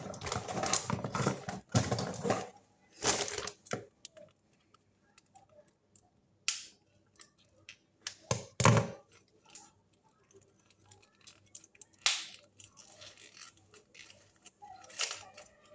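Product packaging being torn open and crinkled by hand, in several noisy bursts over the first few seconds, then scattered clicks and knocks as the item is handled. The loudest is a knock about eight and a half seconds in.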